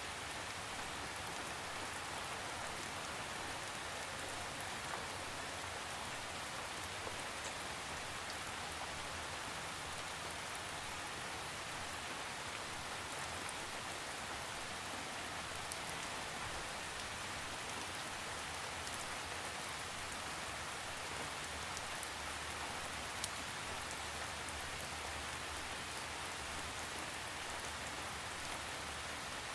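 Steady rain falling, a continuous even hiss with scattered faint drop ticks and no thunder.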